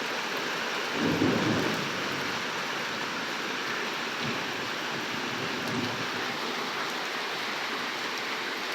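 Heavy rain pouring steadily, with a low rumble of thunder about a second in.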